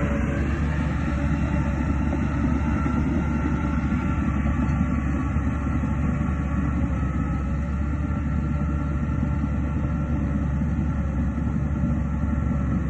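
Diesel engine of heavy earthmoving machinery running steadily: a continuous deep rumble with a steady engine drone.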